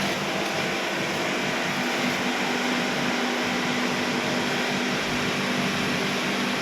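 Gas-fired kiln plant running: a steady, even roar with a low hum from the LPG burners and their combustion-air blowers.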